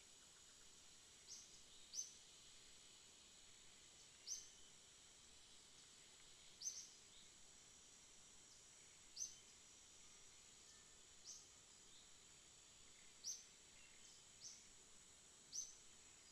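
A bird giving a short, high chirp about every two seconds, over a steady high hiss of background insects.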